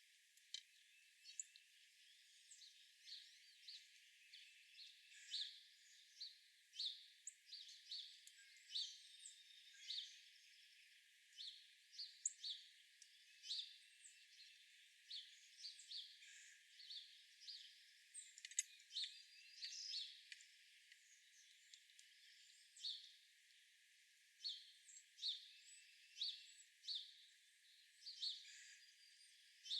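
Small birds chirping: a steady run of short, high chirps, one or two a second, over a faint outdoor hiss, thin-sounding with no low end.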